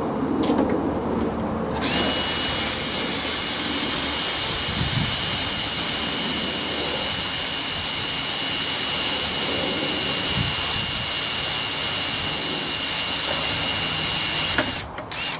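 Electric power tool motor starting up about two seconds in, running at a steady speed with a high whine for about thirteen seconds, then switching off.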